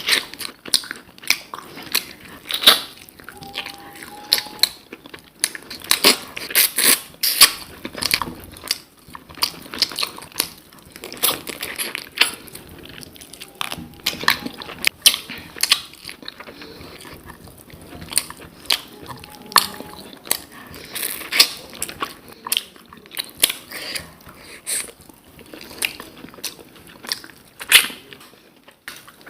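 Close-up eating sounds: a person chewing with frequent wet mouth clicks, lip smacks and some crunching, in quick irregular succession.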